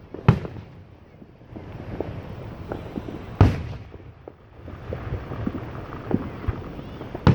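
Fireworks bursting: two loud bangs about three seconds apart, with smaller pops and crackles from other fireworks in between and a third sharp bang near the end. The bangs echo.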